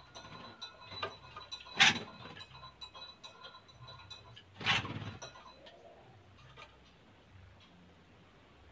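White-rumped shamas moving in an aviary: two short, harsh bursts of sound, about two and five seconds in, the first the louder, amid light scattered ticking.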